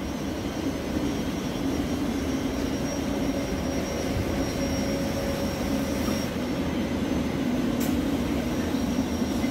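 Inside a Thameslink electric train that has just stopped: a steady hum and whoosh from its onboard equipment and ventilation.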